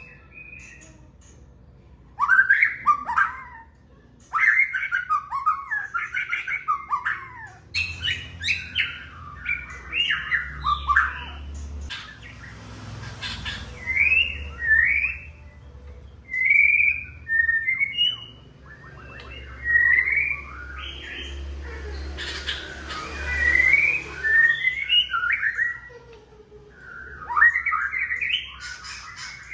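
White-rumped shama singing: bursts of rapid, varied whistled and chattering notes that slide up and down in pitch, each burst lasting a few seconds with short pauses between them.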